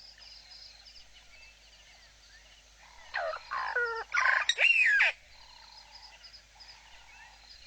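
Birds calling: a loud run of about five sweeping calls from about three to five seconds in, over faint, repeated high twittering from small birds.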